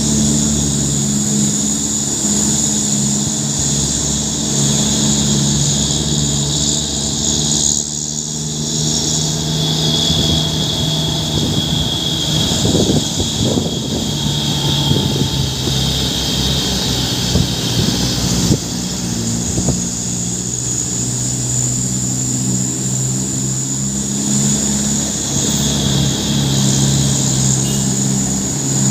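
Heavy truck's diesel engine running with a steady low drone, turning rougher for several seconds in the middle. The sound changes abruptly about 8 and 18 seconds in.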